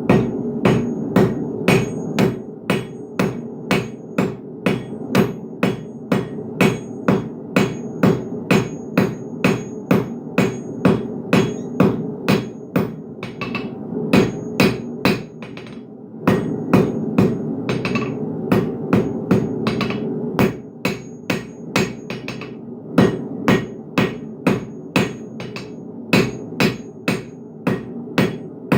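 Blacksmith's hammer striking hot steel on an anvil in steady, ringing blows about two a second, with a brief pause about halfway through. A steady low rumble runs underneath.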